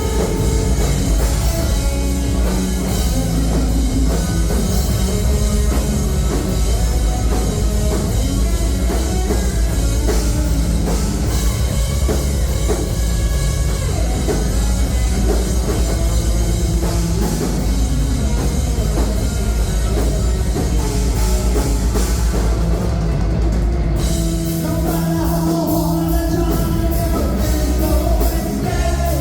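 Live rock band playing loudly: electric guitars, bass and drum kit, in a heavy rock style. The low end thins out about three-quarters of the way through.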